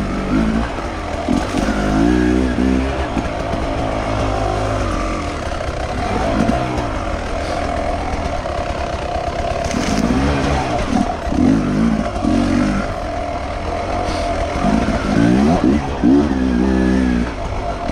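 Enduro motorcycle engine running off-road, its revs rising and falling over and over as the throttle is worked.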